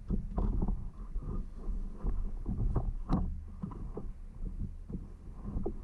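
Low steady rumble with irregular soft knocks and thumps, a few a second, and a sharper knock about three seconds in.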